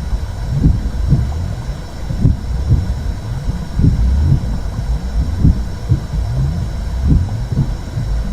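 Womb sound: a steady low whooshing rumble with paired heartbeat-like thumps, one pair about every second and a half.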